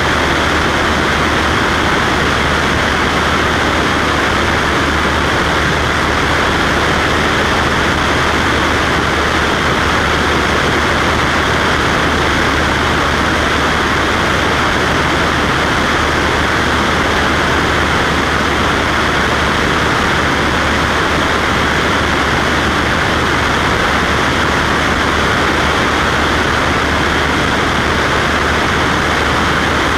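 Cessna Skywagon's piston engine and propeller droning steadily in flight, a constant low hum under a broad rushing hiss.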